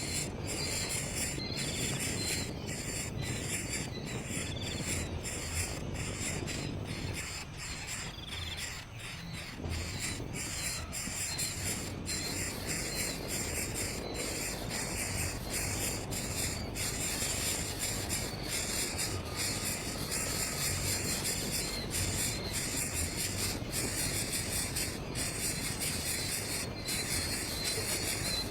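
Steady high-pitched insect chorus, like crickets, with a bird chirping over it in short repeated notes.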